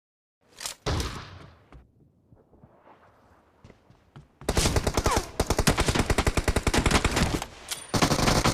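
Video-game automatic gunfire. A couple of sharp shots come about half a second in, then quieter scattered sounds, then rapid sustained machine-gun fire about four seconds in, with a brief let-up near the end.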